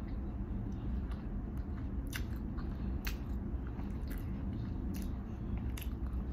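A person chewing and biting into a cheeseburger, with sharp wet mouth clicks a few times over a steady low hum.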